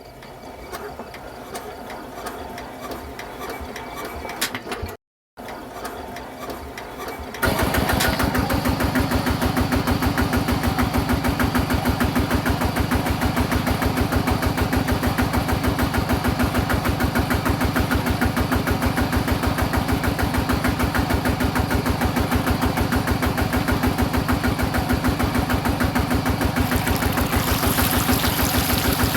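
Miniature model diesel engine cutting in loudly about a quarter of the way in, then running steadily with a fast, even firing rhythm. A fainter mechanical sound comes before it.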